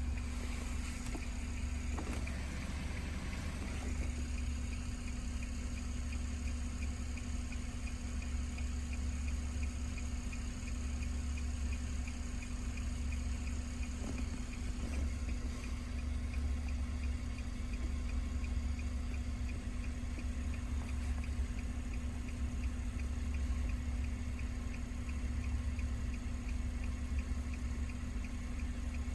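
A vehicle engine idling steadily, with a faint, regular light ticking over it.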